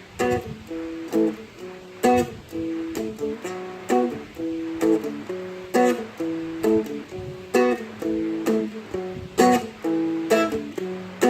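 Seagull Merlin M4, a four-string fretted dulcimer-style instrument, strummed solo in a steady rhythm, each strum ringing into the next, with chord changes every couple of beats.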